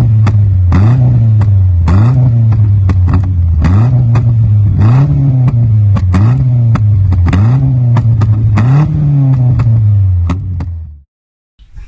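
Audi 80 B4 2.0 E four-cylinder engine heard through its exhaust, repeatedly revved in short throttle blips from idle, about one every second and a half. The sound cuts off abruptly near the end.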